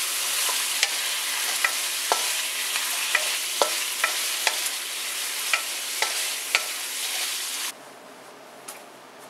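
Chicken wings sizzling in hot oil and chili sauce in a nonstick pan as they are stir-fried with a wooden spatula, with sharp clicks about twice a second from the stirring; this is the last stage of cooking, as the sauce cooks down until it is absorbed. The sizzle stops abruptly near the end, leaving quiet room tone.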